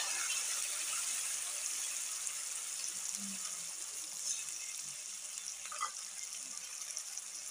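Wet ground masala paste sizzling in hot oil in a kadhai as it is poured in, a steady hiss that slowly dies down. A spatula scrapes briefly against the pan about six seconds in.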